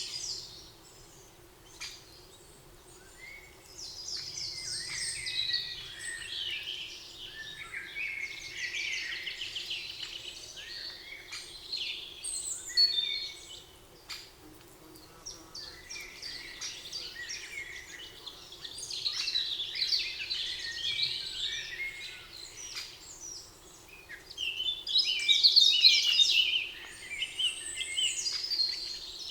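Songbirds singing in overlapping bouts of rapid trills and chirps, each lasting several seconds with short lulls between.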